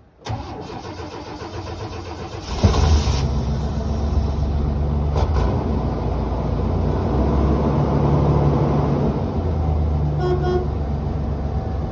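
1990 Chevy C10 pickup engine cranking on the starter for about two and a half seconds. It then catches on a cold start with a sudden jump in loudness and runs steadily.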